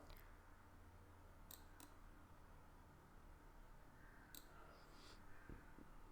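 A few faint, sharp computer mouse clicks, spread out and quiet, over a low room hum.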